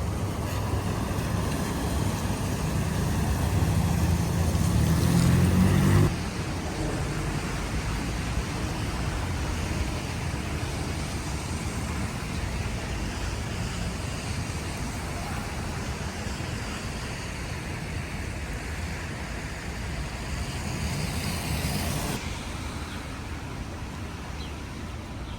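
City traffic on wet streets: a vehicle's engine hum grows louder over the first six seconds and stops abruptly. It gives way to a steady wash of road noise, and a second swell near the end also cuts off suddenly.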